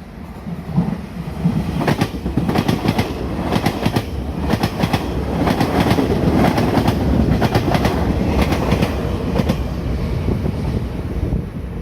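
Puyuma Express electric multiple unit passing through a station at speed: a loud rush of wheel and rail noise with repeated clusters of sharp clicks as the wheels cross rail joints, easing off near the end.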